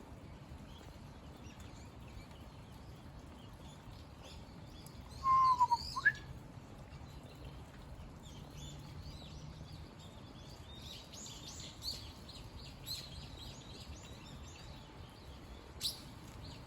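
Birds calling over a steady hiss of rain. About five seconds in comes one loud call that holds a pitch and then slides upward. From about eleven seconds there is a run of quick high chirps, and a sharp click comes near the end.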